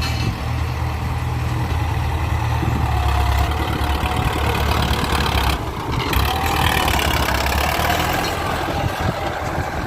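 Ford 6610 tractor's four-cylinder diesel engine running steadily, with a low drone and a harsher mechanical noise that grows louder about three seconds in.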